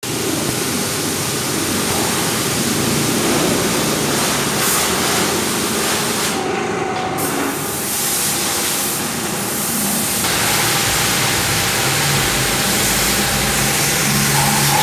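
High-pressure water spray hissing steadily at a car wash, with a low rumble joining about ten seconds in.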